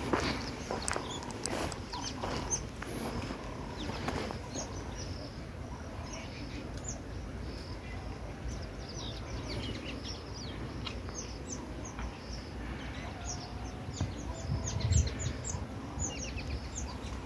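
Small birds in the scrub giving many quick, high chirps, most of them falling in pitch and thickest in the second half. In the first few seconds there are crunching footsteps and brushing through dry vegetation, and about 15 s in there is a brief low rumble.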